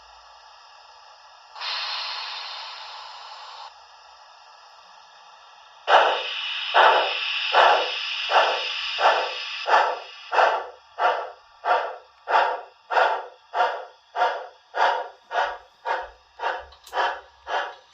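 Sound decoder of an H0 model steam locomotive played through its small speaker: a hiss of about two seconds, then a few seconds later the chuffing starts and comes steadily faster as the engine pulls away, with a steady hiss under the first few chuffs.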